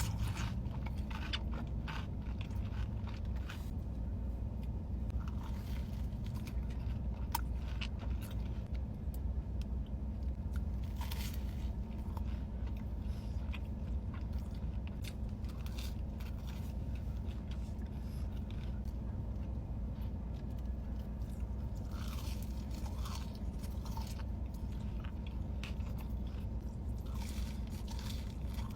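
Close-miked eating: scattered crunchy bites and chewing of crisp food, over a steady low hum.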